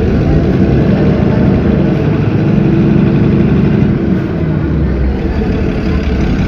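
Cummins ISB 6.7 inline-six turbodiesel of a city bus running steadily; its note climbs about a second and a half in, then drops back after about four seconds.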